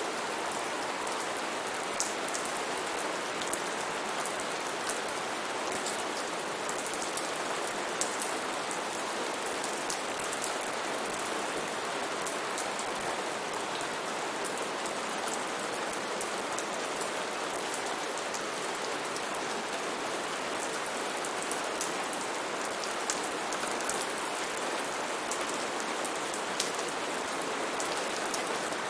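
Steady rain falling on foliage and surfaces, a constant hiss scattered with the sharp taps of individual drops.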